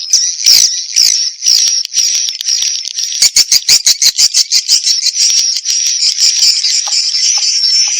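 Swiftlet call-and-roost lure sound: a dense chorus of high, twittering swiftlet chirps, with a rapid run of sharp clicks about three seconds in.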